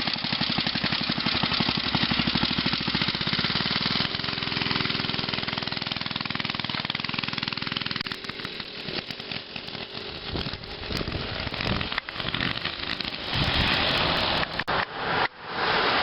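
Montgomery Ward mini bike's small single-cylinder engine running, with rapid even firing pulses. About halfway through the sound turns uneven, dropping and surging in level several times.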